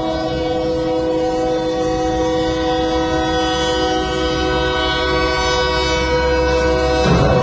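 Train horn sounding one long, continuous blast over the low rumble of the moving train, cut off abruptly about seven seconds in.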